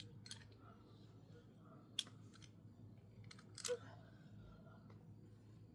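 Near silence with a handful of faint, sharp clicks, the two loudest about two seconds in and near the middle.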